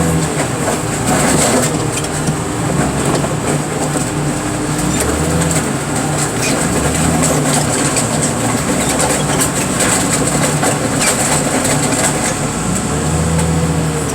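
Heavy scrap-handling machine's engine running under load, its pitch rising and falling several times as the hydraulics are worked, with scattered knocks and clicks and rain hitting the machine.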